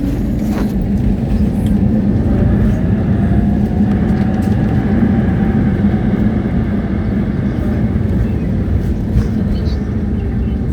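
Airbus A320 heard from inside the cabin during landing: a loud, steady rumble of engines and airflow, with a faint tone that rises and then falls back in the middle.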